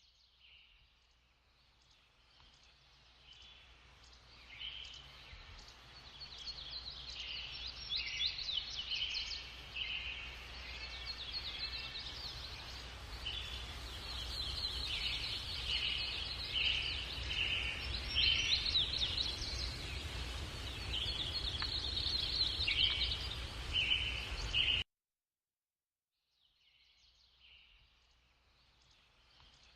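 Many small birds chirping and trilling in repeated short calls over a low rumbling background noise. The sound cuts out abruptly about 25 seconds in, then the chirping returns more faintly.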